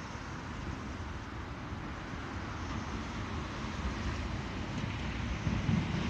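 EN57 electric multiple unit approaching: a steady rushing noise that grows gradually louder, with the low rumble of its wheels on the track starting to come through near the end.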